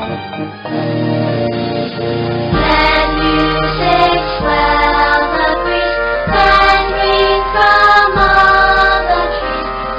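Music: a choir singing sustained chords, growing fuller and louder about two and a half seconds in.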